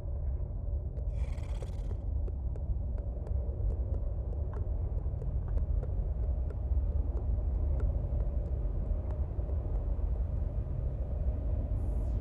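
Outdoor forest field recording dominated by a steady low rumble, with a short hiss about a second in and a run of faint, evenly spaced clicks, about two a second, for most of the stretch.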